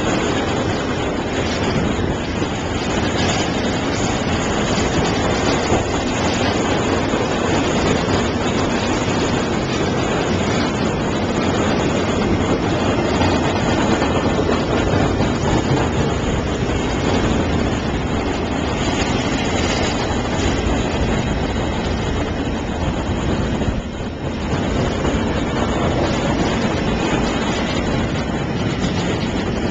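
Union Pacific freight train of empty intermodal cars rolling past, its wheels on the rails making a steady, loud noise.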